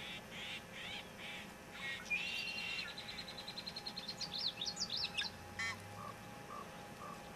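A songbird singing a varied song of short whistled notes and sweeps, with a fast, even trill a few seconds in, then three short lower notes near the end.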